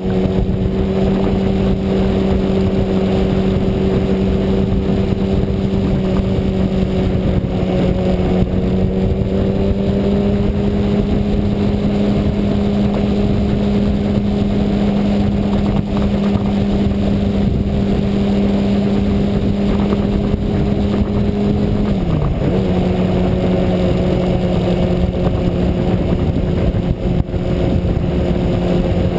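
Sportbike engine running at steady, fairly high revs while riding, with a continuous rush of wind and road noise. The revs dip briefly and pick up again about three quarters of the way through.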